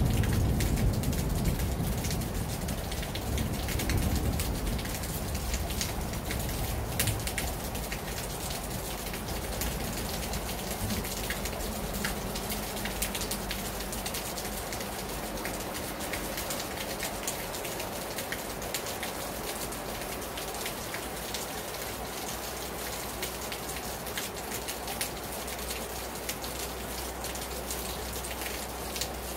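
Rain falling hard on a terrace: a steady hiss of rain dotted with many sharp drop hits. A low rumble dies away over the first few seconds.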